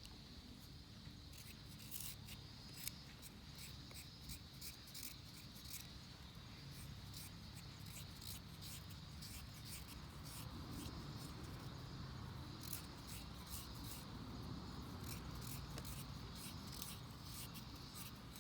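Wood fire crackling in a Picogrill, with many irregular sharp pops and clicks over a low steady rumble that grows a little louder about halfway through.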